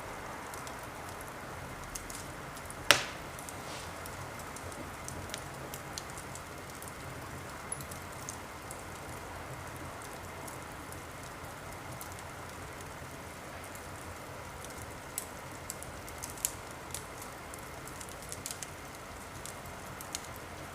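Wood fire crackling in a fireplace: a steady hiss with scattered small snaps, and one loud pop about three seconds in.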